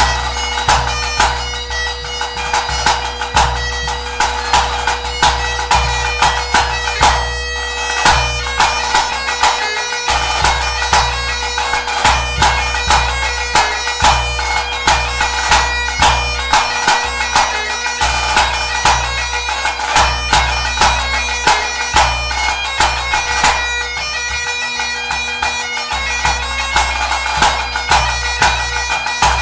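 Great Highland bagpipe playing a tune over its steady drones, with a bass drum beating a steady pulse of about two strokes a second.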